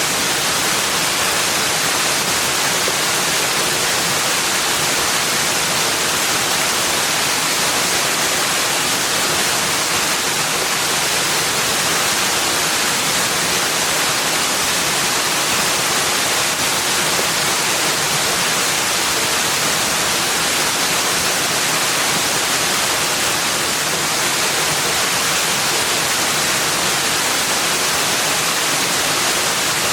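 Running water rushing in a steady, even hiss, with no change or separate events.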